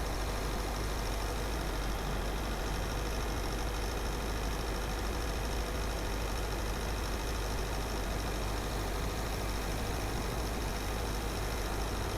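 Car driving at a steady pace: an even rumble of engine and tyre noise on the road, unchanging throughout.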